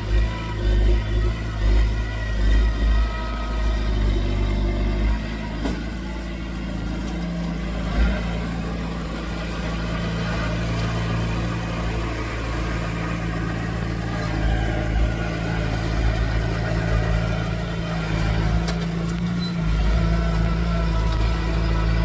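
Diesel engine of earthmoving machinery running with a steady low drone. Its level swells and dips in the first few seconds as the load changes, and two short knocks come about six and eight seconds in.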